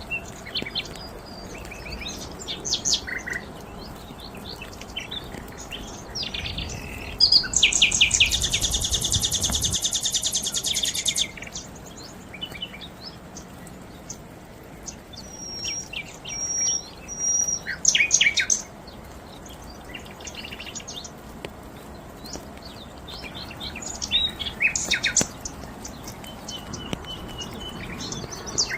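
Several songbirds chirping and singing, with short whistled notes throughout and one loud, very fast trill lasting about four seconds from about seven seconds in.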